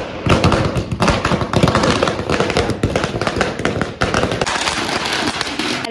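A firecracker going off: a sudden crack, then a dense, rapid run of crackling pops and bangs.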